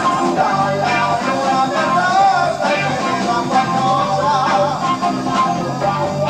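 Progressive rock band playing live, heard on an amateur tape recording: steady drums and bass under a wavering lead melody.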